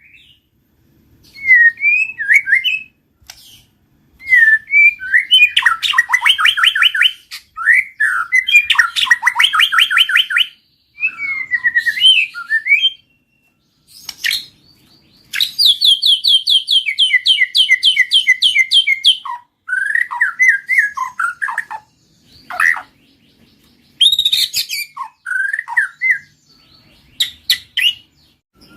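White-rumped shama singing: varied whistled phrases alternating with fast trills of rapidly repeated notes, in bursts separated by short pauses.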